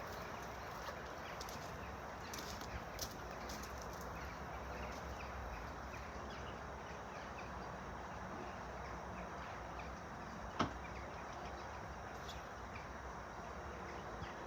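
Quiet, steady background noise, broken by a few light clicks about three seconds in and one sharp click or knock about ten and a half seconds in.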